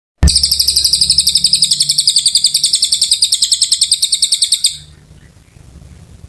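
Cililin bird singing a long, loud, rapid trill of about ten even high notes a second, stopping abruptly near the end; a faint low hum runs underneath.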